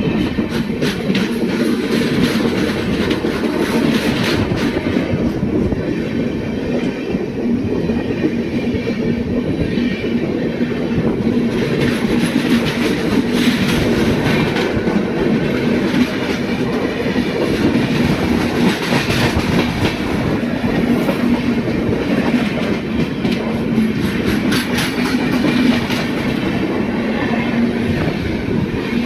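Train running steadily along the track: a continuous rumble with a low hum and the rhythmic clickety-clack of wheels passing over rail joints.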